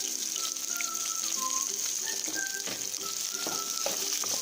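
Onions frying in hot oil in a pan, a steady sizzle, with a few soft knocks in the second half; background music with a simple melody plays over it.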